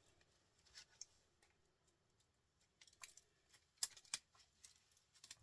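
Faint, scattered clicks and snips of hand work on a small printer motor being taken apart, with two sharper clicks about four seconds in.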